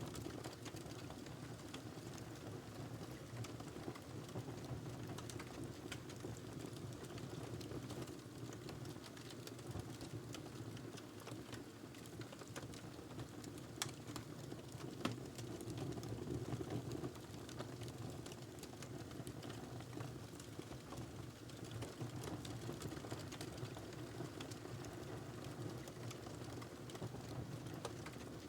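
Wood fire crackling in a fireplace: a steady low rush of flame with many small scattered crackles, and two sharper pops about a second apart halfway through.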